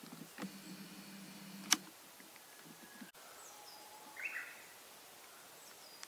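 Faint calls of wild songbirds: a couple of short, high, downward whistles and a brief chirpy call about four seconds in. In the first two seconds there is a low steady hum, and a single sharp click near the end of it.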